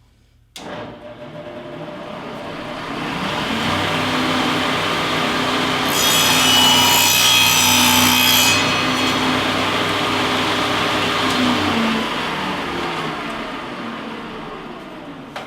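Shopsmith table saw switching on and running, its blade cutting through a wooden board for about two and a half seconds in the middle, then the motor winding down to a stop near the end.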